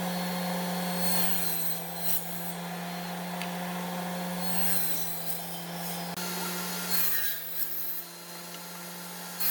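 A woodworking tool rasping steadily against wood over a constant low hum, the sound changing abruptly about six and seven seconds in.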